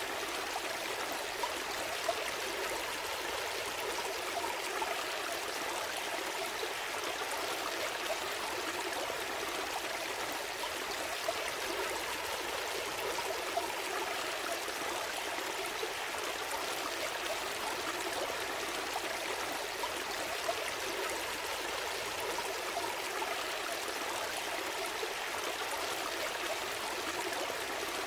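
Small stream flowing steadily over stones, a continuous burble and trickle, with small splashes here and there.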